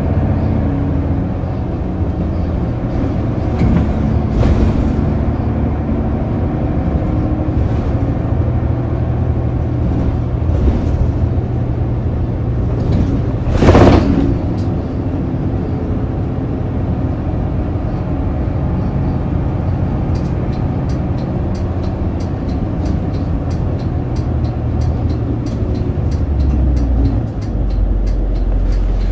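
Diesel engine of a Shin-Joban Kotsu route bus droning steadily, heard from inside the cabin while under way. A single brief, loud whoosh comes about halfway through. A regular ticking starts about two-thirds of the way in, and the engine note drops lower near the end.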